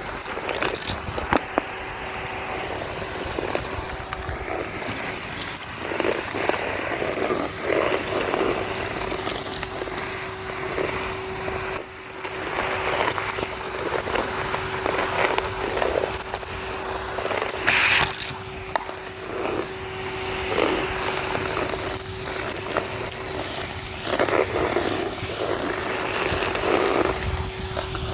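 Henry HVR 200-22 canister vacuum cleaner running with a steady motor hum, its hose sucking up street grit and debris in irregular crunchy, crackling bursts.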